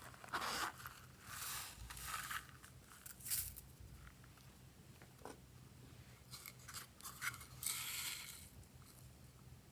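Glossy slime being squeezed and stretched by hand, making irregular short crackling noises, with a cluster of quick clicks about six to seven seconds in and a longer crackle just after.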